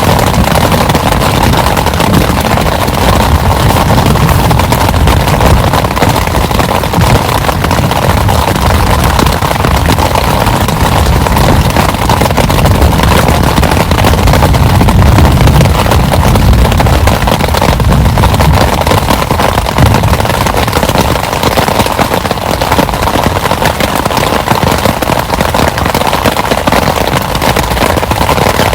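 Heavy rain pouring down steadily, a dense crackling patter of drops with a low, uneven rumble underneath.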